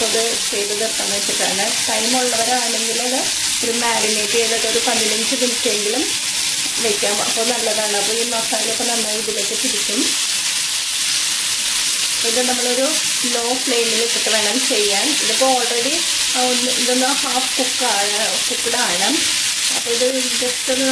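Oil sizzling steadily as masala-coated potato cubes shallow-fry in a non-stick pan. A wavering pitched sound comes and goes underneath.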